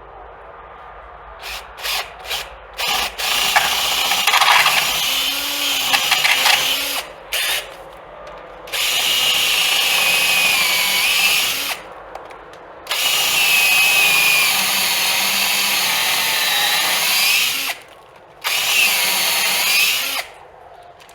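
Cordless electric drill boring bolt holes through clamped wooden boards. A few short trigger blips come first, then four long runs of several seconds each, with the motor pitch wavering under load and pauses in between.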